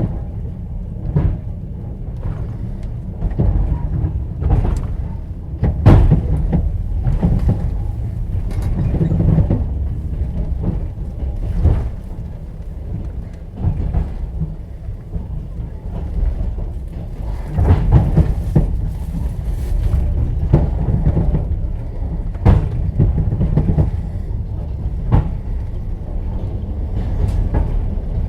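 Inside a moving passenger train car: steady low rumble of the wheels and carriage, broken by irregular sharp knocks, clacks and rattles as the wheels run over the rails.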